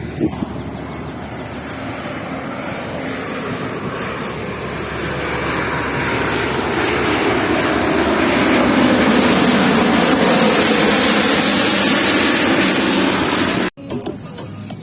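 Jet airliner passing low overhead on its landing approach: engine noise swelling over several seconds to a loud peak and holding, then cut off suddenly near the end.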